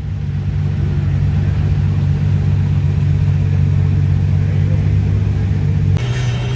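Third-generation Chevrolet Camaro IROC-Z's V8 engine idling at a steady pitch. About six seconds in, the sound jumps abruptly to a different engine tone.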